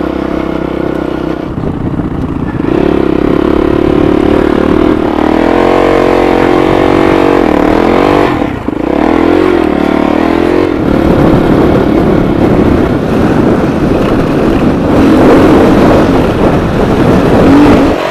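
Rally dirt bike's engine running under way, the revs climbing and falling as the rider works the throttle, with a brief drop about eight and a half seconds in. Wind noise on the helmet-mounted microphone runs under the engine.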